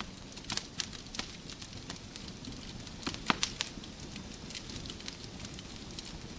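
Wood fire crackling in a fireplace: irregular sharp pops and snaps over a steady soft hiss, the loudest pop a little past three seconds in.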